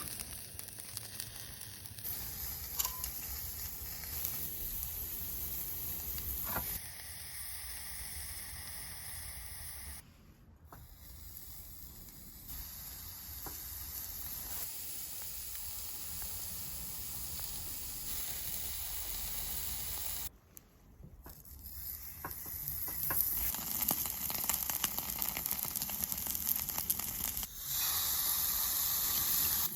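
Meat sizzling on a grill over a campfire fire pit: a steady frying hiss that breaks off briefly twice and grows louder in the last few seconds.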